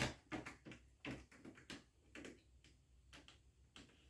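Faint, irregular small clicks and taps from an HO scale model locomotive and its track being handled, with a sharper click at the start.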